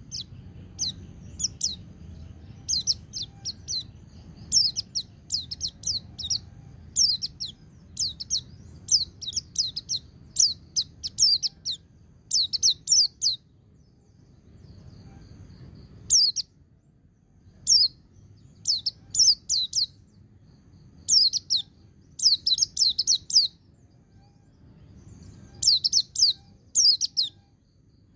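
White-eye (pleci) singing its fast 'ngecir' song: quick bursts of high, sharply falling notes strung together, broken by a couple of short pauses, over a faint low hum.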